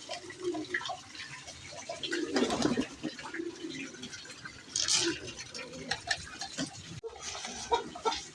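Domestic pigeons cooing softly and repeatedly in a loft, among scattered small clicks and scuffs, with two louder rustling bursts a couple of seconds and about five seconds in.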